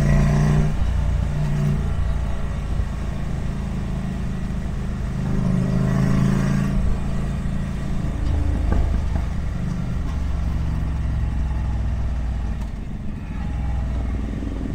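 Ducati Monster 797+ motorcycle's air-cooled L-twin engine running under way, with its note rising and falling as the throttle changes.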